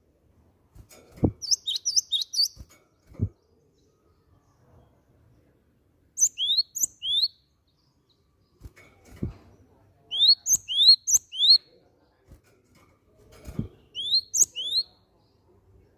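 Cinereous tit (gelatik batu) calling in short groups of sharp, quickly rising chirps, two or three notes to a phrase with pauses between, and a few low soft knocks between phrases.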